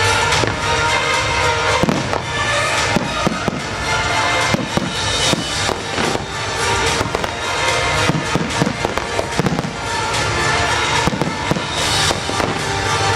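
Pyromusical fireworks display: shells bursting in quick succession, many sharp bangs and crackles throughout, over loud music from the show's sound system.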